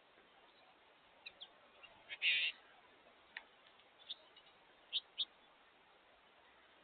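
Small songbirds giving short, sharp chirps, scattered singly and in quick pairs, with one louder, rougher sound about two seconds in.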